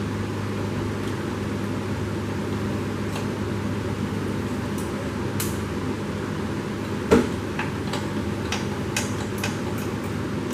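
Steady mechanical hum, with one sharp knock about seven seconds in and several light clicks after it, like tools being handled on metal.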